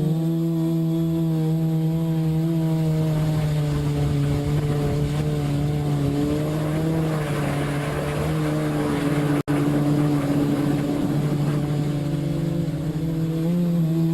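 Multirotor motors and propellers humming steadily at a near-constant pitch, with small rises and dips in speed. The sound cuts out for an instant about nine seconds in.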